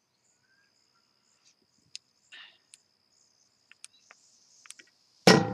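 Steady high trill of crickets with a few faint clicks. About five seconds in, loud music starts abruptly.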